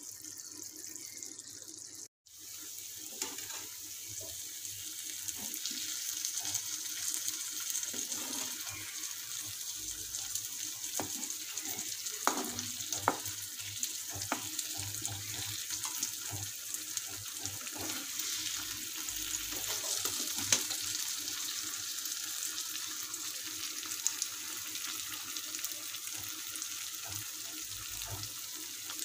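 Chicken frying in thick masala gravy in a frying pan: a steady sizzle and bubbling, with occasional short scrapes and taps of a metal slotted spoon against the pan. The sound cuts out briefly about two seconds in.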